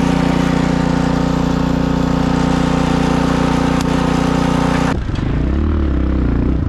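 A small engine running steadily. About five seconds in the sound changes abruptly to a duller engine note whose pitch rises and falls.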